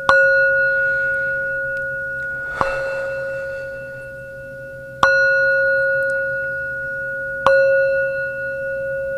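A singing bowl struck four times, about every two and a half seconds, each strike ringing on in a long sustained tone with higher overtones. A faint hiss follows the second strike.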